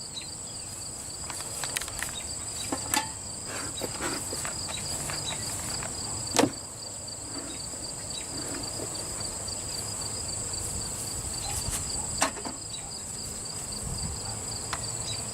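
Field insects chirping steadily: a high continuous drone with a rapidly pulsing trill beneath it. A few sharp knocks cut through it, the loudest about six seconds in, from the wooden hive boxes being opened and handled.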